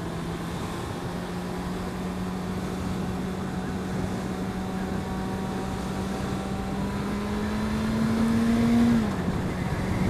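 Suzuki Bandit 650's four-cylinder engine running under steady throttle, heard from the rider's seat over rushing wind and road noise. Its note rises slowly in pitch and loudness as the bike gathers speed, then falls back about nine seconds in.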